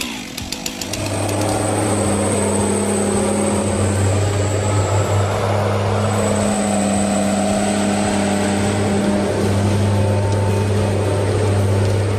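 An engine running steadily: a low hum with a thin high whine over it, rising to full level about a second in.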